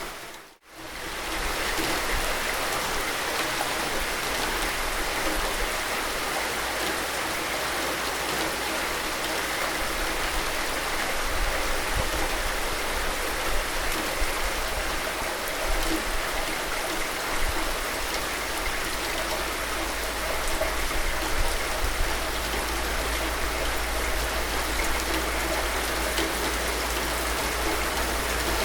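Steady rainfall, an even hiss of many drops. It drops out briefly to near silence about half a second in, then resumes unchanged.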